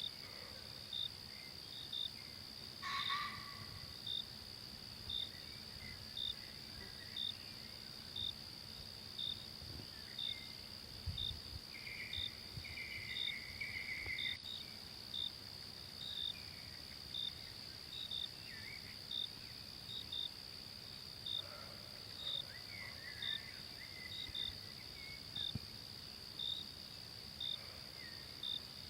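Forest insects: a steady high-pitched drone with a cricket-like chirp repeating about once a second, sometimes doubled. Occasional short bird calls sound over it, the longest about midway.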